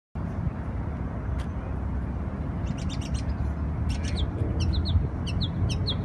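Small songbird chirping: a quick cluster of high notes about three seconds in, then a run of short, sharp, falling chirps through the last two seconds. A steady low rumble runs underneath.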